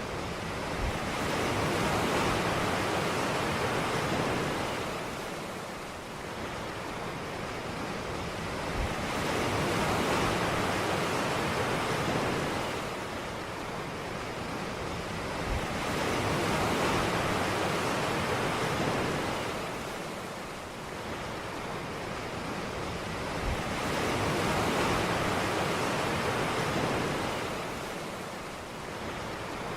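Ocean surf washing onto a beach, a steady rush that swells and falls back in slow surges about every seven to eight seconds.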